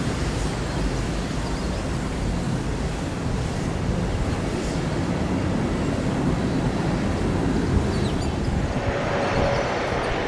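Wind buffeting the microphone: a steady, low rumbling rush with no clear tones. Near the end a higher rushing sound starts to build.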